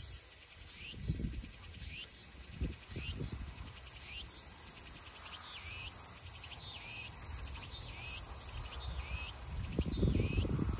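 A bird calling over and over: a short chirp that sweeps in pitch, repeated every second or so, over uneven low rumbles that swell near the end.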